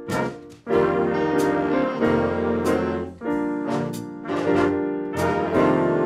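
Music: a brass band playing held chords in short phrases, with brief breaks between them.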